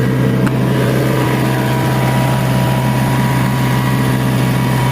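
Nissan BD30 four-cylinder diesel engine of a Hitachi EX60 excavator running steadily, its injection-pump fault now cured so that it starts and runs normally.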